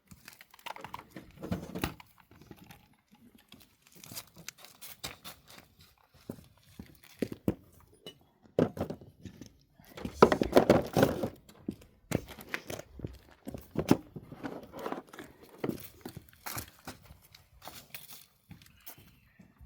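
Split firewood being handled and stacked: irregular wooden knocks and clatters with scraping and crackling of dry bark, busiest and loudest for a second or so about ten seconds in.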